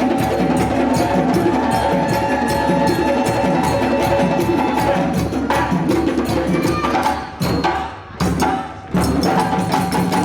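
Percussion band drumming a fast, dense rhythm with clacking bell or wood-block strokes over the drums. Near the end the playing stops short in a few sharp breaks and comes back in.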